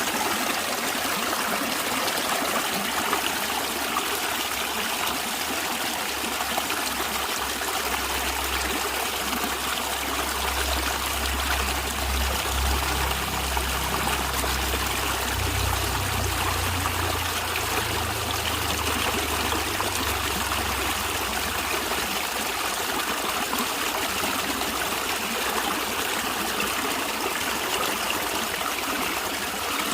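Stream water flowing and trickling steadily, with a low rumble underneath from about 8 to 22 seconds in.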